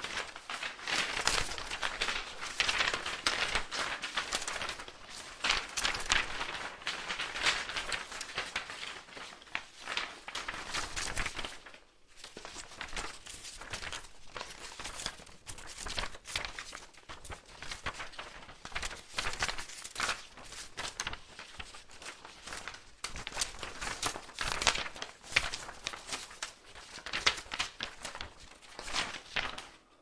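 Paper fluttering: rapid, irregular rustling and flapping of paper, with a brief pause about twelve seconds in, after which it goes on a little softer.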